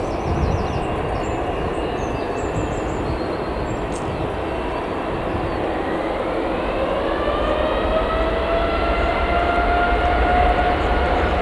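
Boeing 787-8 jet engines running over a steady rushing rumble, with a whine that rises from about six seconds in and then holds, as the engines spool up.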